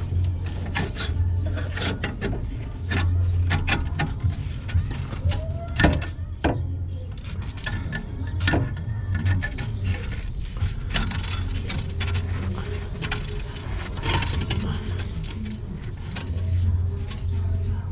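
Irregular metal clanks, knocks and scraping as a slit and spread steel pipe coupler is worked onto an exhaust pipe, with a steady low hum underneath.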